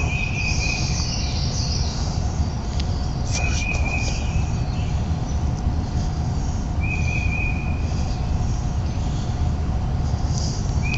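Songbirds singing in spring woodland. One bird repeats a short trilled note about every three and a half seconds among higher chirps, over a steady low rumble.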